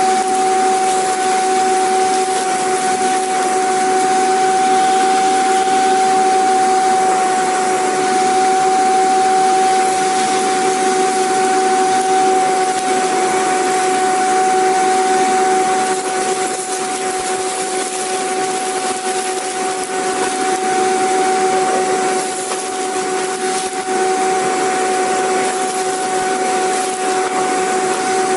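Vacuum cleaner motor running steadily: a constant rushing hiss with a steady whine in it, and no change in speed.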